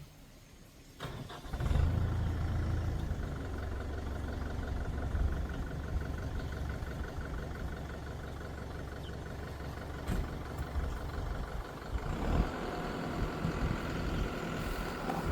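An engine starts about a second and a half in and runs steadily with a low hum.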